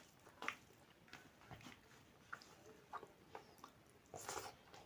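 Faint mouth sounds of a person chewing soft food, a spinach and vegetable curry with rice: scattered small wet clicks and smacks, with a slightly louder smack about four seconds in.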